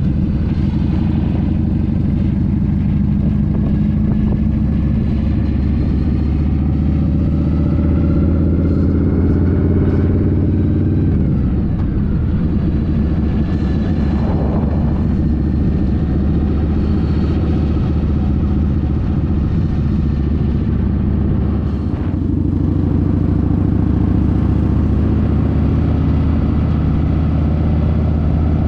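Harley-Davidson FatBoy's Evolution V-twin engine running under way, heard from on the moving motorcycle. The engine note climbs and then shifts about a third of the way in, and changes again after a brief dip about three quarters of the way through.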